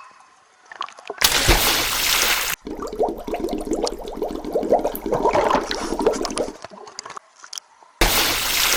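Swimming-pool water splashing and sloshing, loudest in a burst about a second in and again near the end.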